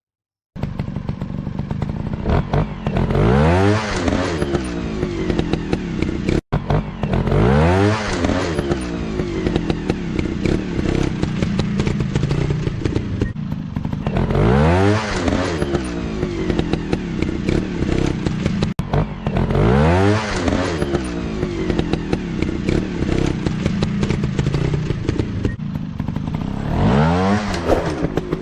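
Single-cylinder four-stroke trail motorcycle engine running, with the revs swelling up and falling back about five times, as when a dirt bike is ridden over off-road obstacles.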